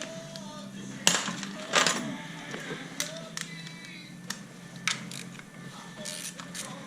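Metal tools and parts clinking and knocking during engine removal work, with one sharp knock about a second in, another just before two seconds, and scattered lighter clinks after.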